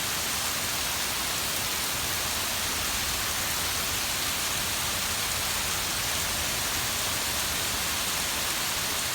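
Heavy rain pouring down steadily, an even hiss of rain hitting surfaces.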